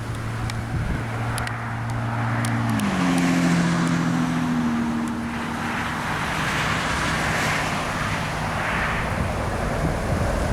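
A passing engine hum whose tones drop in pitch about three seconds in, over a steady rushing noise and wind on the microphone.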